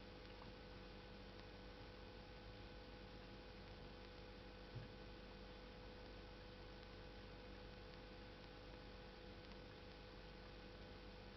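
Near silence: a faint steady hum, with one soft low thump about five seconds in.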